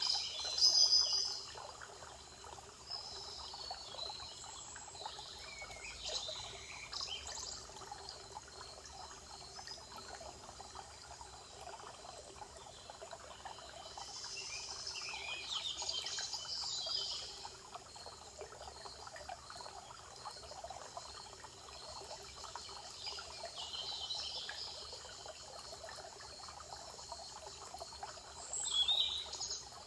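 Forest birds singing in several separate bursts of high song, over a steady trickle of running water.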